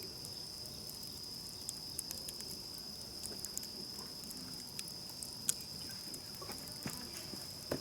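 Wood campfire crackling, with scattered sharp pops, one louder about five and a half seconds in, over a steady high-pitched chorus of insects.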